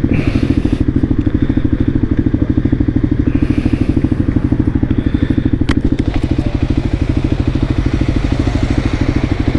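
Voge 300 Rally's single-cylinder engine running steadily at idle with an even, fast pulse. A sharp click about six seconds in.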